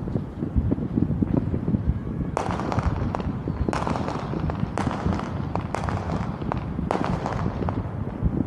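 Fireworks going off: about five sharp bangs between two and seven seconds in, each trailing off in crackle, over a steady low background rumble.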